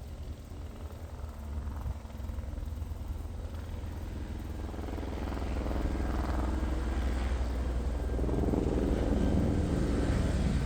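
Helicopter flying overhead, its rotor and engine noise growing steadily louder over the second half.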